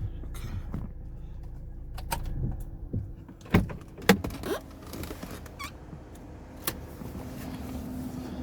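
A car being shut down and left after parking: a run of sharp clicks and knocks from handling inside the car, the loudest two about three and a half and four seconds in, over a low rumble, with a steady hum setting in near the end.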